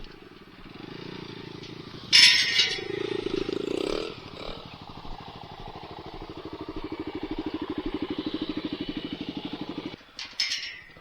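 Dirt bike engine running with a pulsing beat, revving up in pitch around three to four seconds in, then holding a steady run. A loud rushing burst comes about two seconds in, and a few sharp clicks come near the end.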